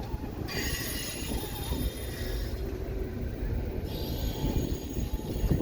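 Freight train cars rolling past with a steady low rumble. High-pitched wheel squeal sets in about half a second in and breaks off near four seconds, then comes back more weakly.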